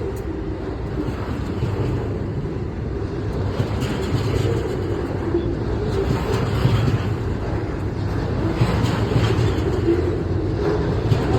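Double-stack container freight train passing: a steady low rumble and clatter of wheels on rail, with a few sharper knocks in the second half.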